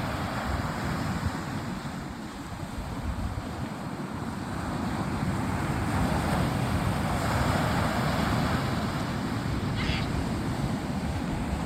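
Wind on the microphone over the wash of surf: a steady rushing noise with low rumble that eases a little a couple of seconds in and swells again.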